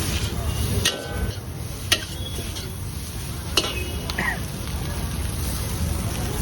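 Food stir-frying in a hot pan: a steady sizzle, with a metal spatula knocking against the pan a few times.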